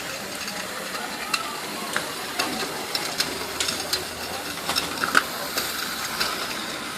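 OO gauge Hornby model steam locomotive running on its track: a steady whirring hiss from the motor and wheels, with scattered sharp clicks.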